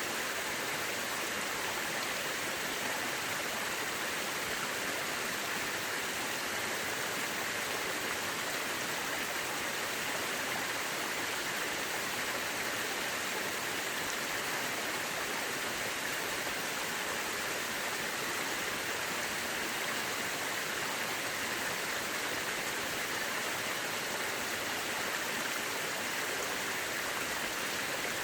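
Mountain river rushing over rocks: a steady, unbroken hiss of flowing water.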